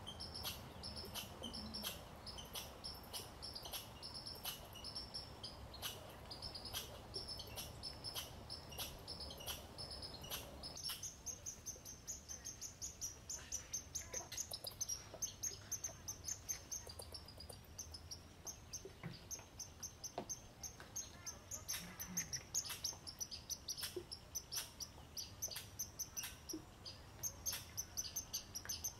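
Birds chirping in quick series of short, high chirps, several a second, continuing throughout. About 11 seconds in the chirping changes to a denser, higher-pitched series.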